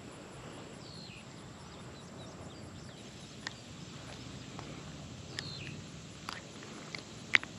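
Faint open-air background with a few short, downward-sliding bird chirps and several sharp clicks, the loudest near the end.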